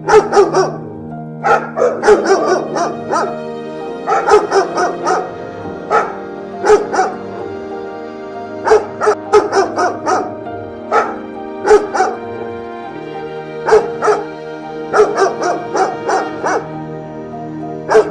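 A dog barking repeatedly in irregular runs of several barks, over background music with sustained chords.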